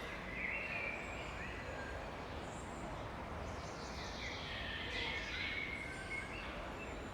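Small songbirds calling and singing, short high chirps and whistles, some sliding in pitch, over a steady low background rumble.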